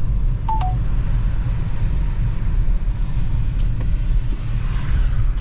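Steady low rumble of a car driving on a slushy, snow-covered road, heard from inside the cabin. A short two-note electronic beep sounds about half a second in.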